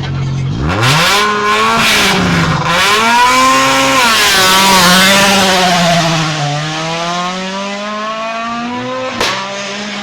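Rally car's engine idling at the stage start, then launching about half a second in and accelerating hard through the gears, the revs climbing and dropping back at each upshift as the car pulls away. A single sharp crack comes near the end.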